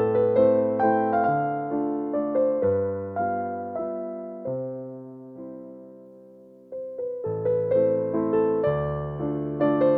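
Background piano music, a gentle melody of struck notes that dies away to a single fading chord and resumes with a new phrase near the middle.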